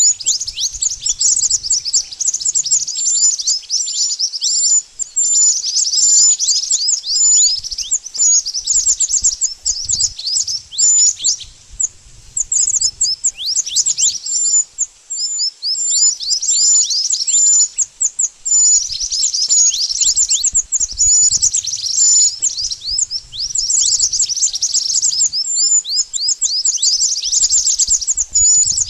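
Mantenan bird singing: fast, high-pitched runs of thin, downward-sweeping chirps in repeated phrases with brief gaps, the kind of recorded call used as a lure for trapping this bird.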